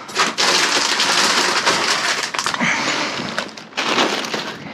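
Plastic bags and food packaging crinkling and crunching as trash in a dumpster is rummaged through, a loud dense crackle for about three seconds, then scattered sharper rustles and knocks.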